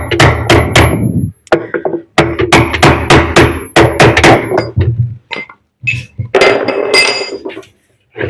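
Hammer blows on metal, struck in three quick runs of about four blows a second, with a ringing note hanging after the strikes.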